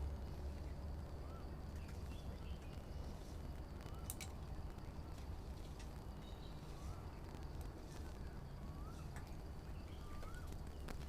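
A bird calling outdoors: one short, thin, rising-and-falling note repeated about every second and a half, over a steady low background rumble, with a sharp click about four seconds in.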